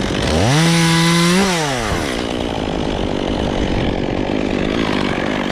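Two-stroke chainsaw revved once to high speed about half a second in, held there for about a second, then dropping back to a steady idle.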